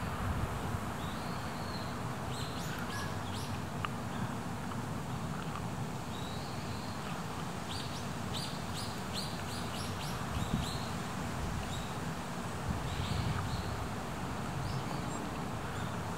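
Small birds chirping in several short runs of quick, high notes over a steady low background rumble.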